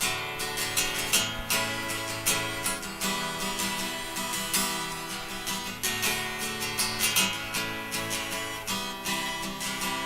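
Acoustic guitar strummed in a steady rhythm: an instrumental break of a song, with no singing.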